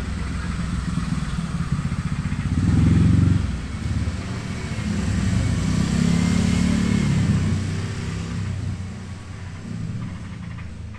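A motorcycle engine running close by, getting louder twice: about three seconds in, and again from about six to seven seconds in.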